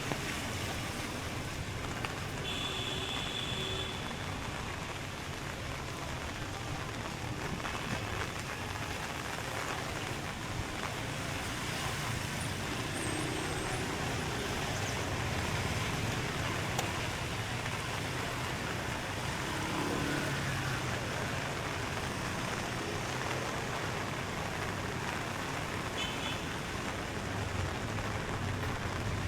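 Steady wash of rain and street traffic, motor vehicles passing on wet roads, with a short high tone about three seconds in.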